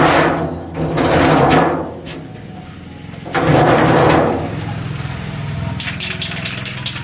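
A pressure washer spraying in three bursts of hiss over the steady hum of its running motor; between bursts only the motor hum goes on.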